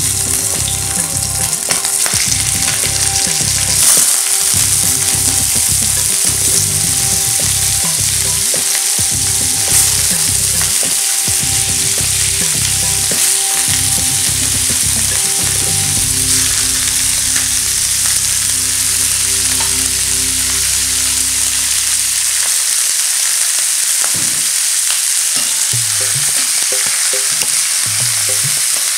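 Raw chicken pieces sizzling loudly in hot oil in a cast-iron skillet as tongs lay them in and move them about. The sizzle starts abruptly as the first piece goes in and then holds steady.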